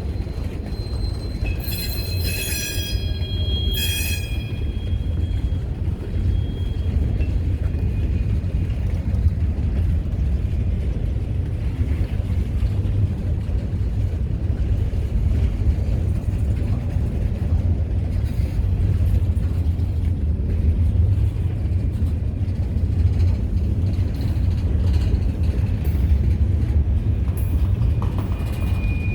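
Train rolling by on the rails: a steady, heavy low rumble of wheels and cars, with a high, many-toned wheel squeal for a couple of seconds near the start.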